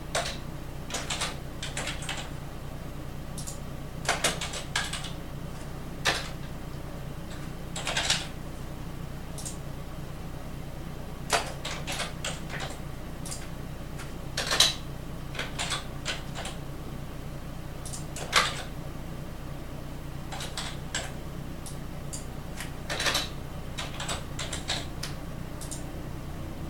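Scattered keystrokes and clicks on a computer keyboard, in short irregular clusters, over a steady low hum.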